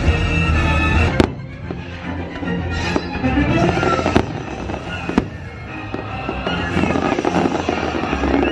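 Fireworks going off during a fireworks show, four sharp bangs a second or so apart in the first two-thirds, over loud show music.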